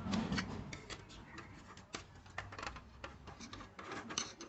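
Irregular light clicks and taps, several a second, like small hard objects being handled.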